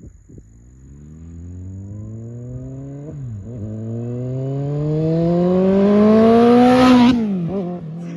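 Kawasaki Concourse 14's inline-four engine accelerating hard, its pitch climbing through a gear change about three seconds in and getting louder. About seven seconds in, the pitch and volume drop sharply as the bike passes.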